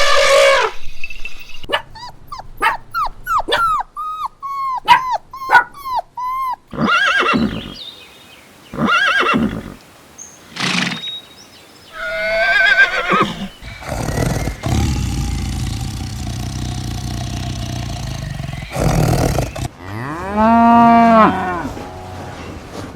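A run of different farm animal calls one after another: a burst of short, quickly repeated calls in the first seconds, several longer separate calls, a long stretch of steady rough noise, then a cow mooing once, rising and falling, near the end.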